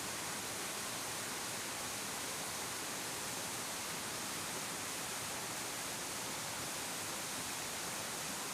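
Waterfall with a 30 m drop and a heavy flow of water, crashing into its plunge pool as a steady, unbroken hiss and rush.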